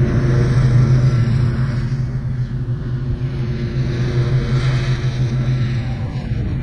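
Gravely zero-turn mower engine running at a steady speed, an even hum that holds throughout.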